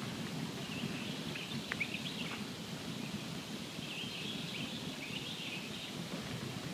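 Campfire burning steadily with a low rush of flame, a few sharp pops, and thin high squeaks scattered through.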